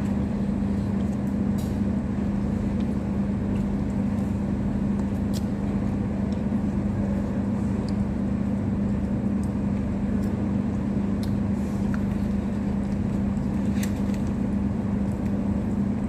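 A steady low mechanical hum with one strong droning tone, unchanging throughout, with a few faint scattered clicks.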